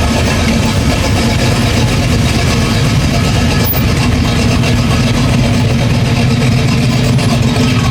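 Car engine idling steadily, a low, even rumble.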